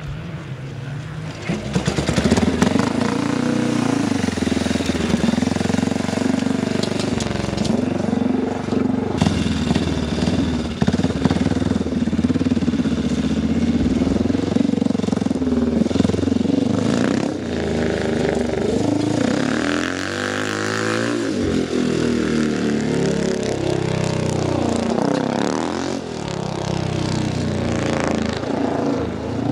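Speedway motorcycle's single-cylinder engine running and revving, its pitch rising and falling again and again as it circuits the dirt track. It grows louder about a second and a half in.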